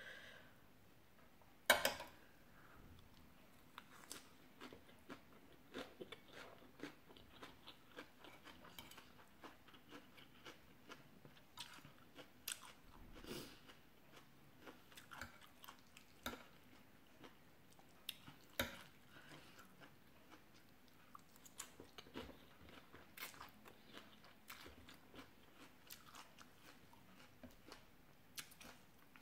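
Quiet, close chewing and crunching of rice noodles and raw leafy vegetables: irregular small mouth clicks and smacks, with a sharper click about two seconds in and another about eighteen seconds in.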